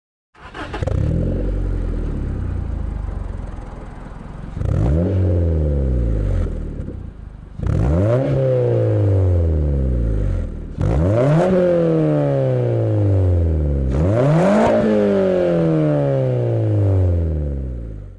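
Honda Civic 1.7L four-cylinder engine breathing through a MagnaFlow Street Series performance exhaust, revved five times: each rev climbs quickly in pitch, then falls slowly back.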